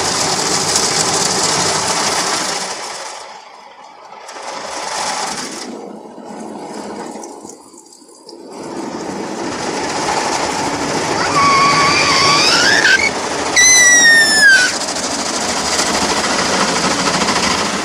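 Automatic car wash heard from inside the car: the brushes and water spray working over the body as a dense rushing, rattling noise that drops away twice and then comes back. Near the end a short high-pitched squeal glides up and down.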